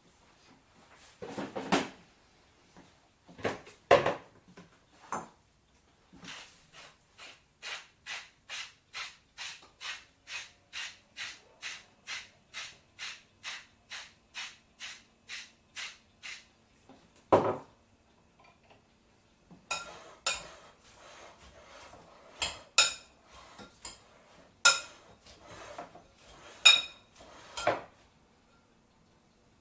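Salad being prepared: a few clatters, then a knife chopping on a cutting board in even strokes about twice a second for about ten seconds. A single knock follows, then clinks of dishes and cutlery.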